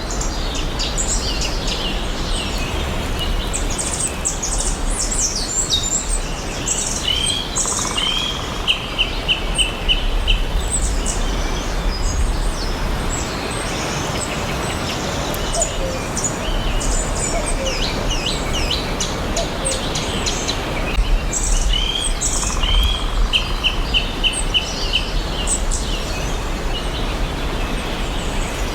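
Several songbirds chirping and singing together, many short chirps and sweeps over a steady background hiss. A phrase of quick, evenly repeated notes comes twice, about ten seconds in and again near the end.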